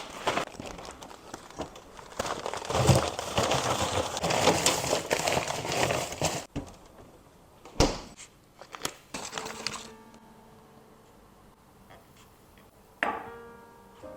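Crinkling and rustling of something being handled, loudest in the middle. A few sharp knocks follow, and a short ringing clink comes near the end.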